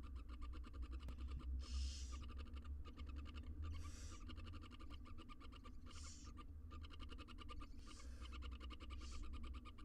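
Barn owl nestlings' hissing begging calls, a harsh hiss about every two seconds, over a steady low hum.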